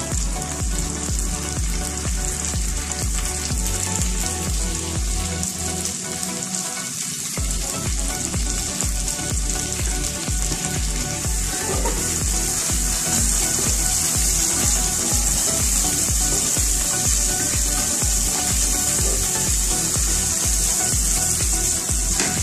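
Ginger, garlic and onion sizzling as they sauté in hot oil in a pan, the sizzle growing a little louder about halfway through. Background music with a steady beat plays underneath.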